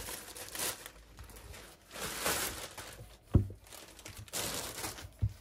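Handling noises: rustling, with two short dull thumps as something is set down, about three seconds in and again near the end.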